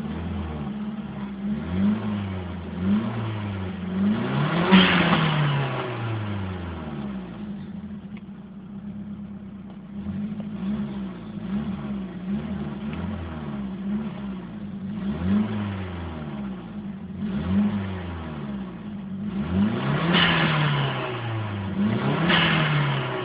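Nissan SR20 four-cylinder engine blipped again and again, each rev rising and falling back, with a few longer, higher revs; it sits at a steadier idle for a couple of seconds about eight seconds in. The stock exhaust has a leak.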